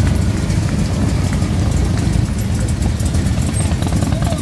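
Engines of classic cars and pickup trucks running as they drive slowly past in a line, a steady low rumble.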